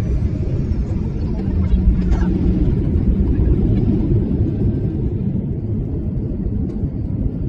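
Airliner cabin noise: a loud, steady low rumble of the jet engines and airflow heard from inside the cabin.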